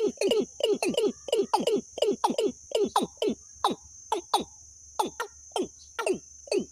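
A bird's call repeated rapidly, short downward-sweeping notes at about three a second, with a short break a little past the middle. A steady high-pitched buzz runs underneath.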